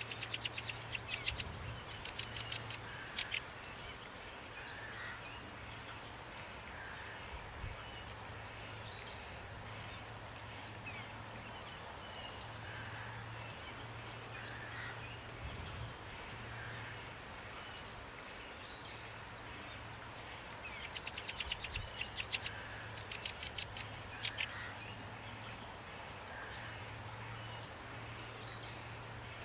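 Songbirds singing over a steady hiss of falling rain: clusters of rapid, falling high-pitched trills near the start and again about two-thirds of the way through, with a softer call repeating every couple of seconds.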